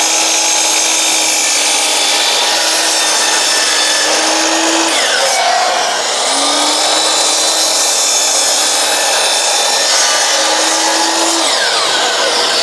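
Electric power saw running and cutting wooden boards to length. A steady motor hum sits under the cutting noise, breaks off about five seconds in, comes back a second later and stops near the end.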